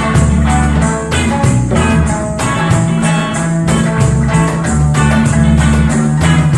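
Live band playing a reggae-style instrumental passage: plucked strings over a steady beat and bass line.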